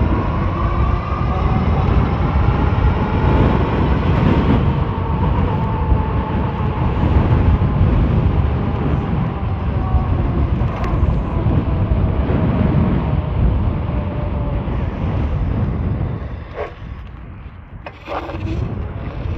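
Wind buffeting the microphone of a moving e-bike, a loud steady rumble, with a faint whine that slowly falls in pitch over the first few seconds. The rumble drops off briefly near the end.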